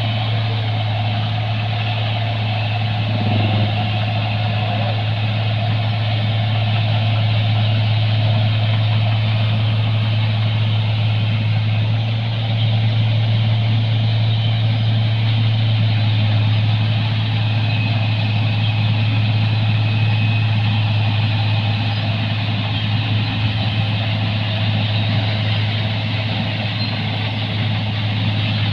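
New Holland 1545-S rice combine harvester running steadily, a constant deep engine hum with a rush of machinery noise over it.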